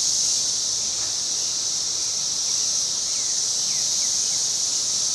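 Dense chorus of 17-year periodical cicadas singing, a steady, unbroken high-pitched drone.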